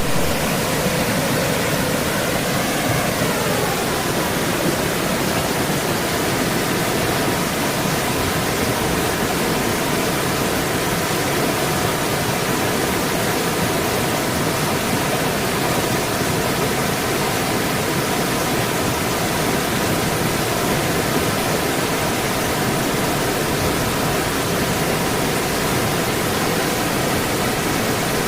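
Creek water flowing steadily, a dense even rush of water.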